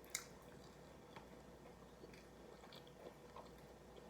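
Faint chewing of food with scattered small mouth clicks; the sharpest click comes right at the start.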